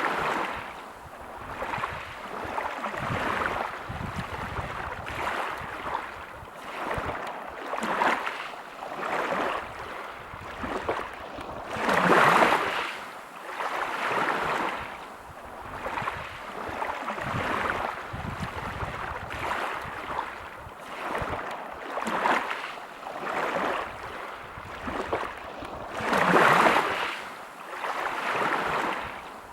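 Waves breaking on a pebble beach, each swell rising to a hiss and draining back over the stones, with two larger waves about twelve seconds and twenty-six seconds in.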